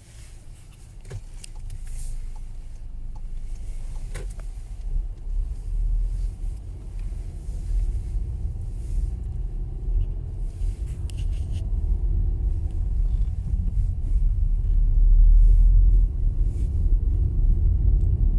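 Car driving, with a steady low engine and road rumble that grows louder as it picks up speed.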